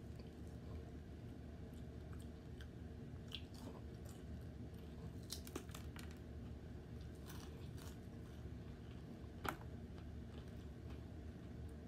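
Close-up eating of fried, breaded pork chop: quiet chewing with scattered crisp crunches, the sharpest one near the end.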